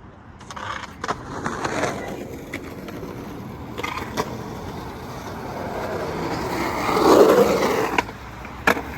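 Skateboard rolling over concrete, the rolling growing louder as the board comes close, loudest about seven seconds in, then stopping abruptly. A few sharp clacks of the board along the way, the sharpest near the end.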